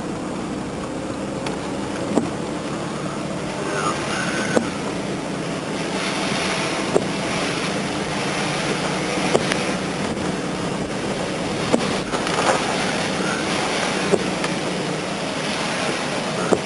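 Steady car noise with a sharp click repeating about every two and a half seconds, and two brief chirps, about four seconds in and again near the end.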